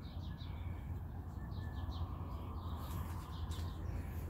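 Songbirds chirping, many short high calls repeated throughout, over a low steady rumble.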